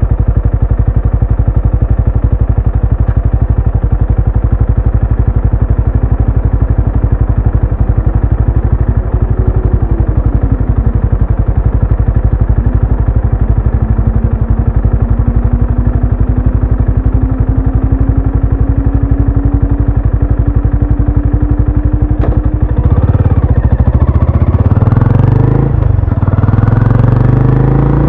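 Benelli Imperiale 400's single-cylinder engine and exhaust running at a steady, even beat. Near the end it gets louder and revs up, its pitch climbing as it accelerates.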